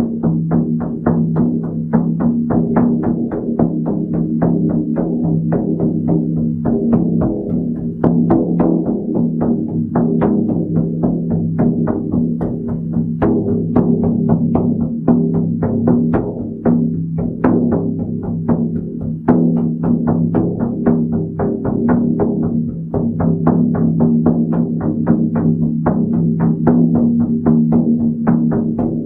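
Hand drum beaten in a steady rhythm, about three strokes a second, its deep ring carrying on between strokes. The drumming stops right at the end and the ring dies away.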